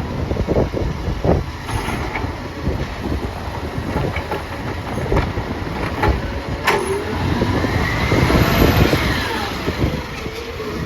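Side-loader garbage truck working a recycling collection: engine running with scattered knocks and clatter, a sharp click, then a whine that rises and falls about eight seconds in.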